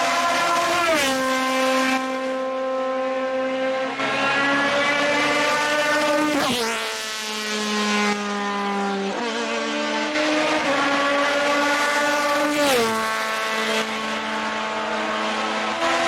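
Hillclimb race cars passing at high revs, one after another. Each engine note glides down sharply in pitch as the car goes by, about three times.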